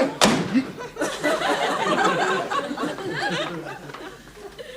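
Studio audience laughing, many voices together, swelling about a second in and dying away near the end. A single sharp knock comes right at the start.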